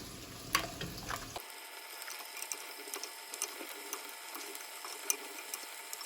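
Faint sizzling and crackling of food sautéing in oil in a pan, with many small scattered ticks. There are a couple of sharper clicks in the first second and a half, and the low background hum cuts off about a second and a half in.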